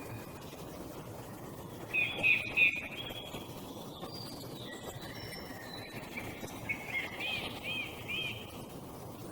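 Small songbirds singing outdoors: a short burst of high chirping notes about two seconds in, then a phrase of three repeated arched notes near the end, over a steady low background rumble.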